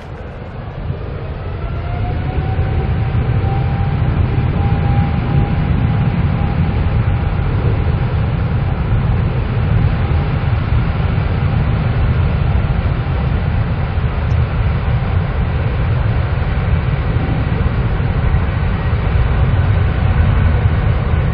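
Jet airliner engines running with a deep rumble that builds over the first two seconds. A thin whine rises in pitch, then holds steady and fades out about halfway through.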